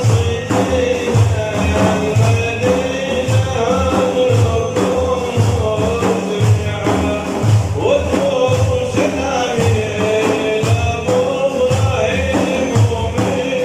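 Devotional manqaba singing: a voice holds long, gliding melodic lines over frame drums beating a steady rhythm.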